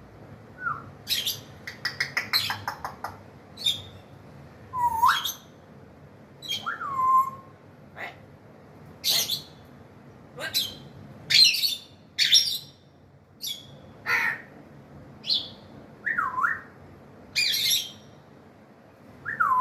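African grey parrot calling over and over: short, sharp squawks mixed with swooping whistles that dip and rise again, and a quick clicking rattle near the start.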